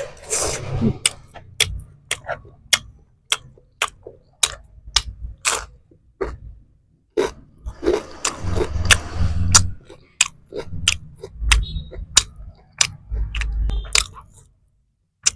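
Close-up crunching of crisp spicy chips being chewed: a run of sharp crackles, about two a second, with dull low thumps mixed in.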